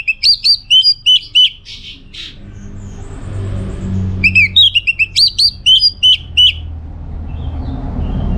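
Orange-headed thrush singing: two fast runs of sharp, repeated, hooked notes, each lasting about two seconds, about three seconds apart. A low rumble sits behind the song between the runs.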